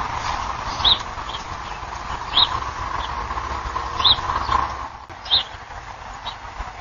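A bird giving short, high chirps about every second and a half, over a low outdoor rumble that eases off about five seconds in.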